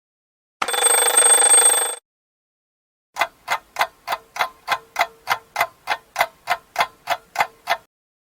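Two stock sound effects: a short burst of bright hiss with a ringing tone in it, about a second and a half long, then a fast clock-like ticking, about sixteen sharp ticks at a steady pace of roughly three a second, which stops shortly before the end.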